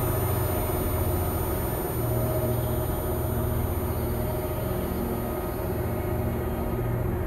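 Steady low ambient drone with many sustained tones layered over a deep hum, holding evenly without a break.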